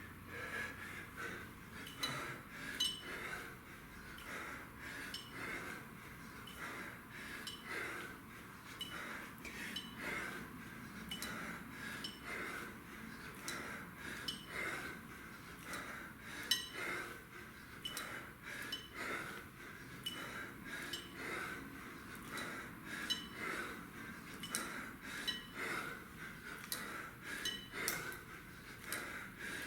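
A man breathing hard and rhythmically while working a kettlebell through repeated reps, each breath swelling and fading. Light clinks come along with the breaths about once a second.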